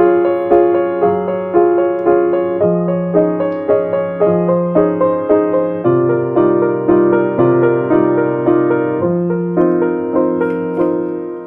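Slow, gentle instrumental piano music, notes struck about twice a second, fading down near the end.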